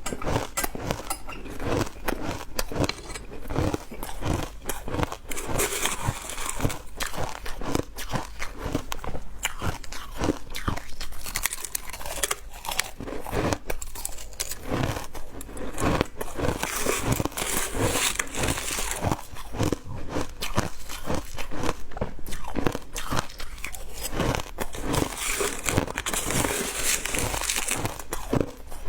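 Close-miked biting and chewing of ice: a continuous run of crisp crunches, several a second, with stretches of denser, brighter crackling.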